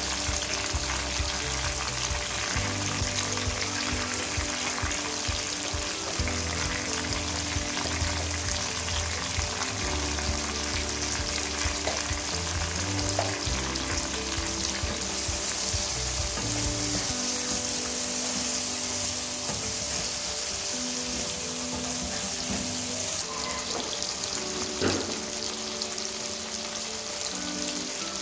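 Chicken pieces sizzling in hot oil in a wok as they fry with ground spices, a steady hiss. A single sharp knock near the end.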